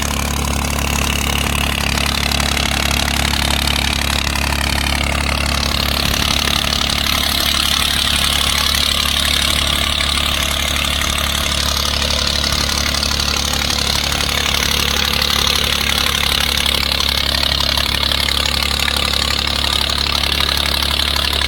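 New Holland 3630 Super Plus tractor's three-cylinder diesel engine running steadily at constant speed, with no change in pitch or load.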